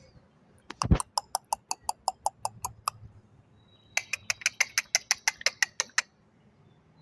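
A person making rapid squeaky kissing sounds with the lips to call a cat, two runs of about five smacks a second. There is a single low thump about a second in.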